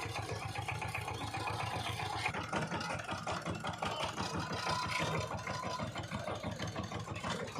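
Power tiller's single-cylinder diesel engine running with a rapid, even chugging beat.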